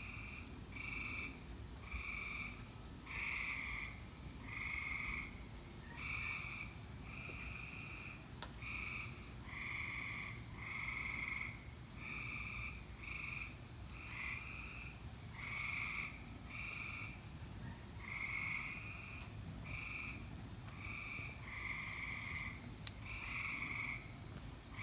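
Frogs, likely tree frogs, calling in a chorus: short calls of under a second that repeat about once a second and overlap one another. The sound has been likened to a high-pitched hyena.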